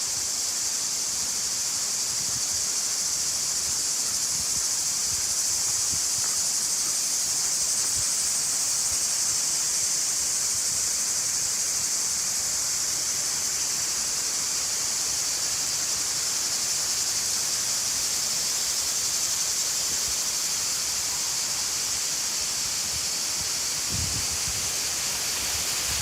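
Steady, unbroken high-pitched buzzing of insects, over a faint rush of running water.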